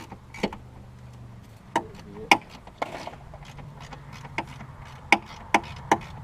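Irregular sharp metallic clicks and knocks of hand tools working on a car's front end, a handful of them loud, over a low steady hum.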